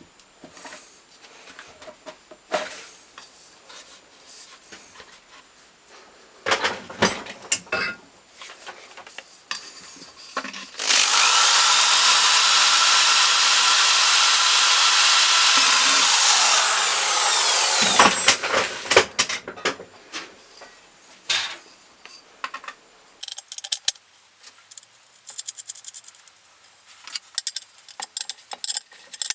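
Workshop handling and tool noise: clicks and knocks, then a power tool runs loud and steady for about seven seconds and winds down with falling pitch, followed by more clattering.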